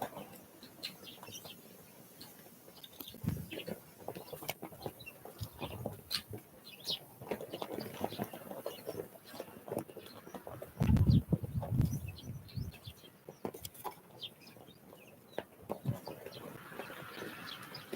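Small wild birds calling with many short, high chirps, among scattered sharp taps and clicks, with a loud low rumble about eleven seconds in.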